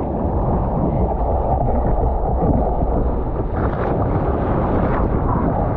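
Ocean water and wind rushing over a GoPro while surfing: a steady, dull rushing noise, mostly low in pitch.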